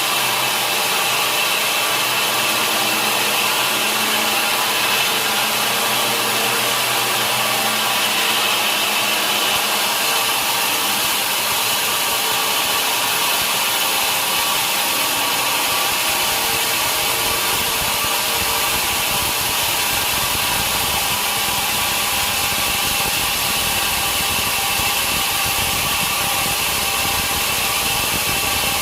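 Sawmill saw running steadily while cutting through a large log, a loud continuous whine and rasp. A deeper rumble joins about halfway through.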